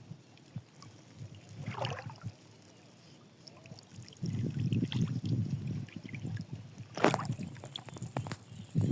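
Fish thrashing in a net, splashing and sloshing water, with sharp splashes about two seconds in and again near the end, and a brief lull in between.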